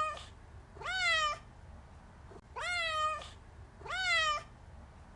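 Domestic cat meowing: the tail of one meow, then three more, each rising and then falling in pitch, spaced about a second and a half apart.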